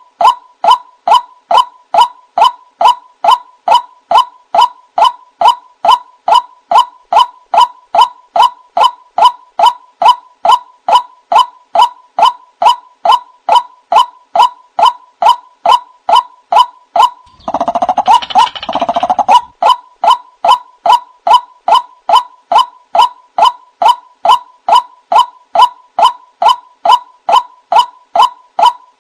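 White-breasted waterhen calling: a long, steady run of short repeated notes, about two and a half a second. It is broken about 18 seconds in by two longer, harsher notes.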